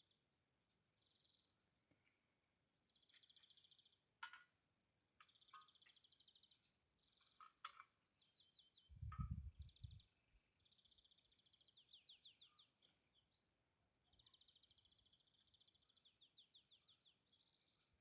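Faint songbird singing: repeated short trills and chirps, some as quick falling notes. A brief low thump about nine seconds in.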